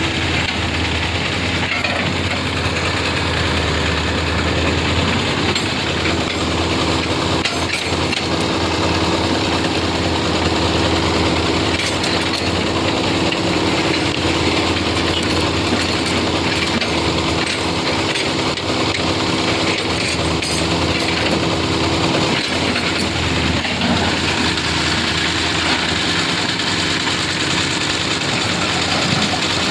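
Engine running steadily at an even speed, a constant low hum with a few faint knocks, typical of heavy road-works machinery or trucks on the road.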